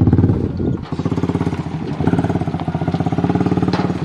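A vehicle engine running with a fast, even exhaust pulse, dipping briefly about a second in and then running on steadily.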